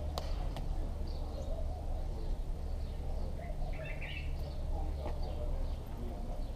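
Small birds chirping repeatedly, with a denser run of calls about four seconds in, over a steady low rumble. Two sharp clicks sound just after the start.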